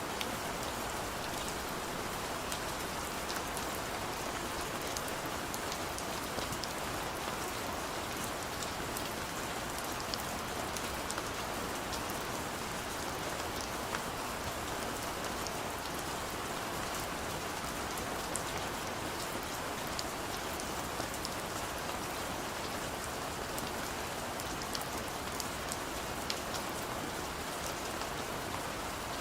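Heavy rain falling steadily, a constant hiss with scattered individual drop ticks on a surface.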